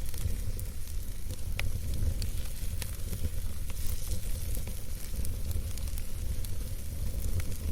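Wood campfire burning with a steady low rumble of flame and scattered sharp crackles and pops from the wood.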